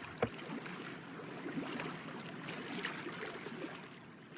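Water lapping and trickling, with a single sharp knock about a quarter second in; the sound grows fainter near the end.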